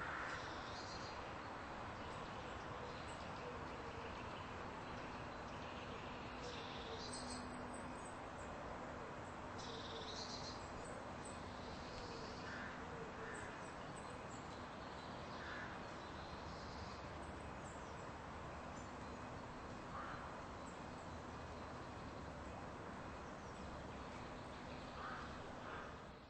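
Steady outdoor background noise with a few short, faint bird calls now and then.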